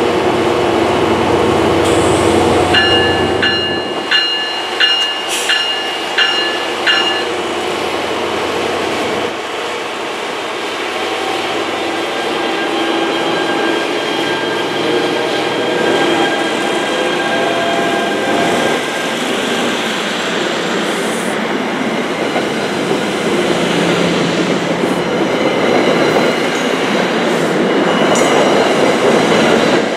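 NJ Transit ALP-45DP locomotive on diesel power, its engine running loudly as it pulls out, while a bell rings about twice a second from about three to seven seconds in. The bilevel coaches then roll past with steady wheel squeal and clicking over the rail joints.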